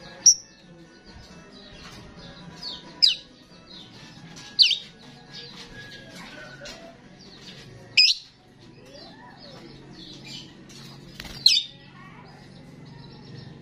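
Starling in full, non-stop song: a fast, continuous run of chattering, squeaky notes, broken by five loud, sharp whistles a few seconds apart.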